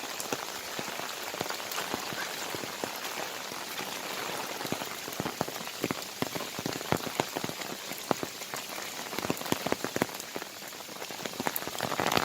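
Heavy rain falling steadily, a dense hiss with many sharp taps of individual drops close by.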